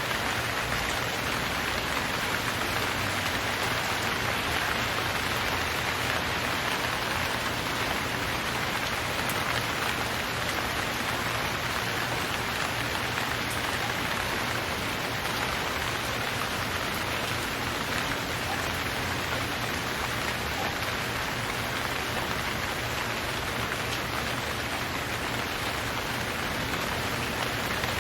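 Steady rain falling and pattering on surfaces, an even hiss with no thunder or other distinct events.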